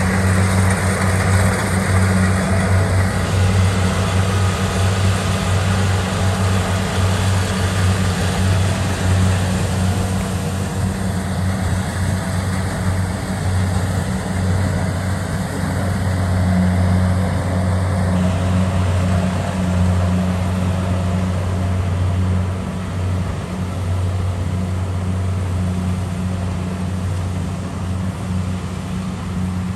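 Kubota DC70 Pro combine harvester's diesel engine running steadily with a continuous deep drone.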